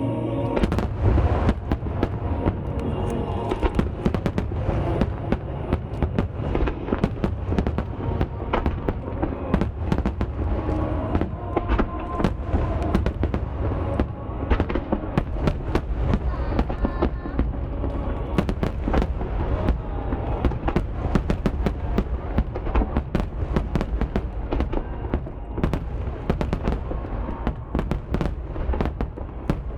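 Dense, continuous barrage of aerial fireworks shells bursting, with many booms and crackles every second over a steady low rumble.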